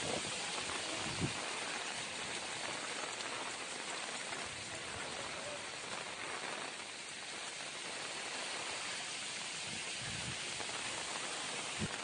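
Steady rain falling on waterlogged ground, an even hiss, with a small knock about a second in.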